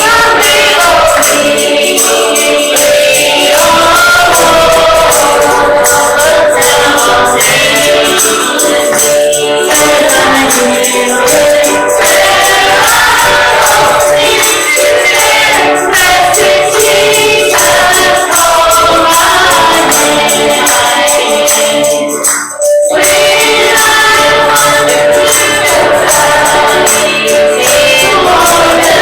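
Church singers performing a gospel song with a tambourine shaken in a steady beat; the music dips briefly about three-quarters of the way through.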